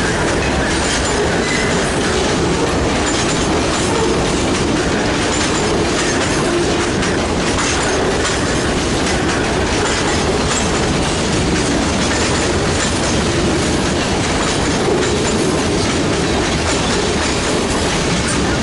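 Freight train cars rolling past at a steady pace: a continuous rumble with wheels clicking over the rail joints.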